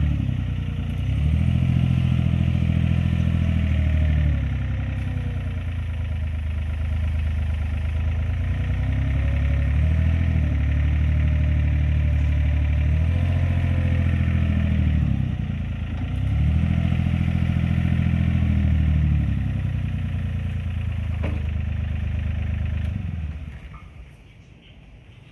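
Excavator's diesel engine running under a load that keeps changing, its pitch dipping and recovering every few seconds as it scoops and dumps sand. The engine sound falls away near the end.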